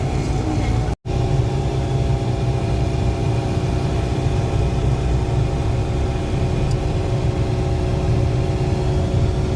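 Motor vehicle running steadily while on the move: a constant engine hum over a low road rumble, cut off for an instant about a second in.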